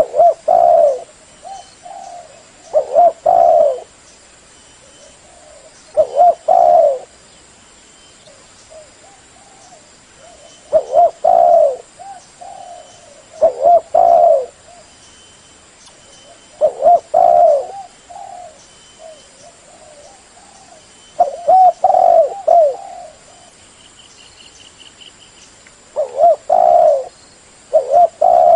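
Spotted dove (terkukur) cooing: loud phrases of a few mellow coos repeated about every three to five seconds, with softer coos between them.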